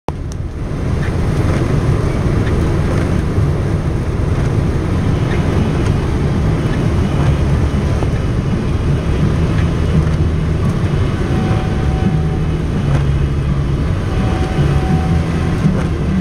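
A car being driven, a loud steady low rumble of engine and road noise.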